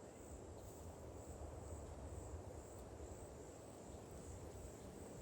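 A faint, steady high-pitched insect chorus, like crickets, pulsing gently, with a low rumble underneath.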